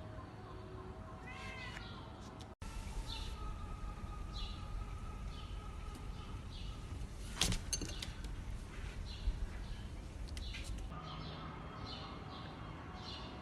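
Small birds chirping repeatedly in short high notes over a low steady rumble, with a sharp click about seven seconds in.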